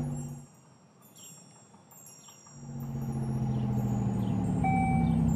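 A steady low hum, like a cartoon vehicle's engine, fades out. After about two seconds of near quiet with faint bird-like chirps, the hum comes back and grows. Near the end short chime-like tones start repeating.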